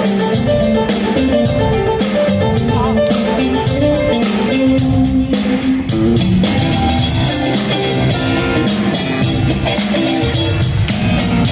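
Live rock band playing an instrumental passage: electric guitar lines over a steady drum-kit beat and bass, heard through a concert hall's PA.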